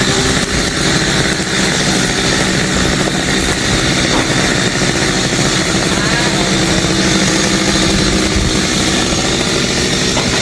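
Chainsaw engine running steadily and loudly throughout.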